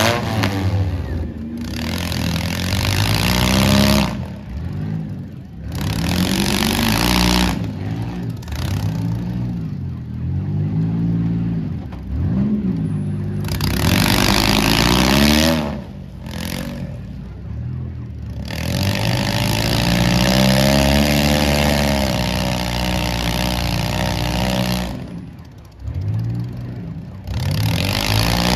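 Demolition derby cars' engines revving hard in repeated surges of a second or two, several engines at once, their pitch climbing and falling.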